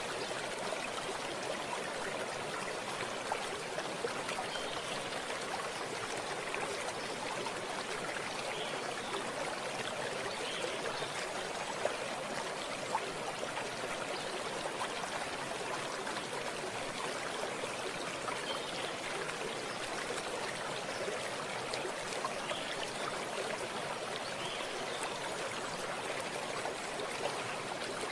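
Running water of a small stream, a steady rushing and trickling with a few small splashes.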